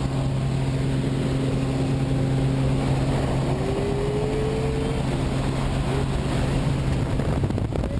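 Steady engine and propeller drone of a skydiving jump plane heard inside the cabin, a constant low hum over rumbling noise. The pitch of the hum shifts near the end.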